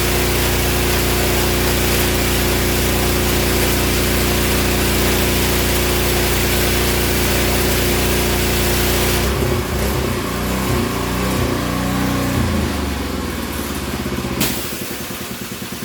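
Engine-driven pressure washer running under load with the spray hissing. About nine seconds in the spray stops and the engine note wavers. A sharp click comes near the end, and then the engine runs on with a steady pulsing beat.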